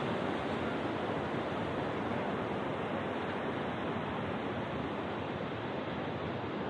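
Steady rushing of a waterfall and mountain stream in a rock gorge, an even wash of water noise.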